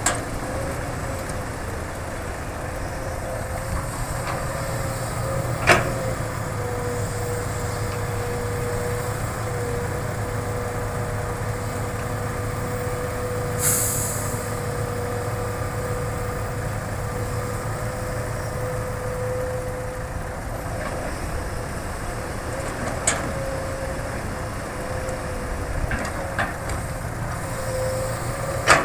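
Hitachi excavator working: its diesel engine runs steadily with a constant whine over a low rumble, broken by a few sharp knocks and one brief hiss about halfway.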